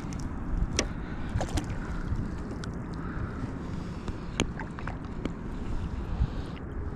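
Wind buffeting the microphone in a steady low rumble, with scattered light clicks and taps throughout.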